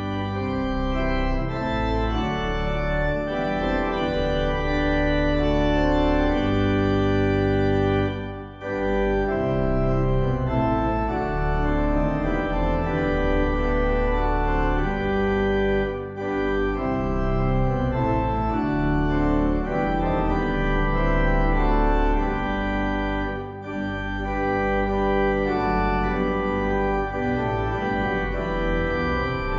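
Organ playing slow, held chords in phrases, with a short pause about every seven or eight seconds: a postlude closing a church service.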